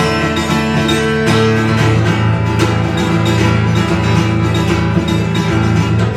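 Guitar playing an instrumental passage of a live song: chords strummed over sustained low notes, with no voice.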